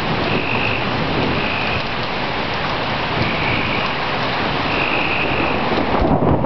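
Heavy rain falling steadily, with a rumble of thunder coming in near the end.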